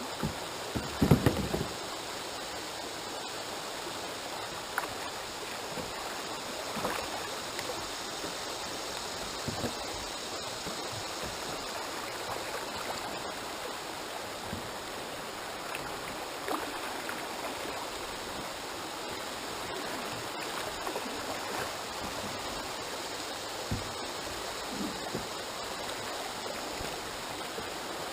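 Buttahatchie River water rushing steadily, with a brief cluster of knocks about a second in and a few small taps after.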